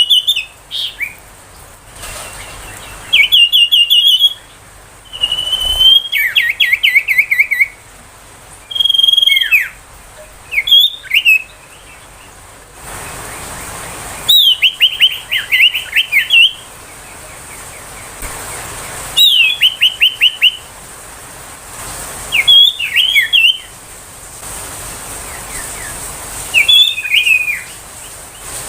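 Common iora singing: short phrases of high clear whistles and rapid rattling trills, repeated every few seconds with pauses between.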